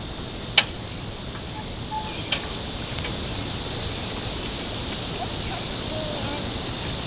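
Steady outdoor hiss with a sharp click about half a second in and a softer one a little after two seconds.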